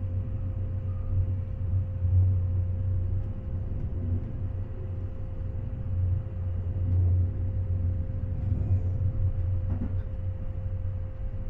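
Metre-gauge electric regional train running: a steady low rumble that swells and eases, with a constant mid-pitched hum over it.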